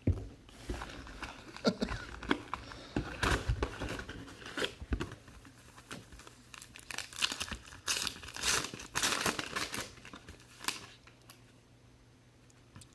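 Plastic wrapping on a trading card box and its packs being torn open and crinkled, in irregular bursts that stop near the end.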